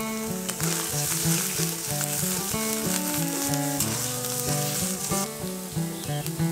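Cauliflower-leaf paste sizzling as it fries in a steel pan, stirred with a spatula; the sizzle stops about five seconds in. Background music with plucked notes plays throughout.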